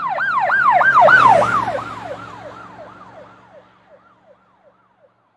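Emergency vehicle siren in a fast yelp, about three rising-and-falling whoops a second, with a low hum beneath. It is loudest about a second in, then fades away as if the vehicle passes and drives off.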